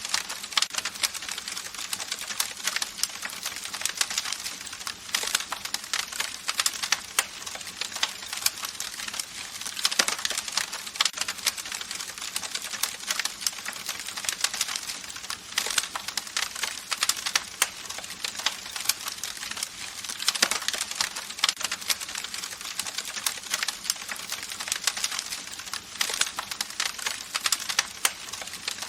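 Campfire crackling: dense, irregular snaps and pops over a steady hiss.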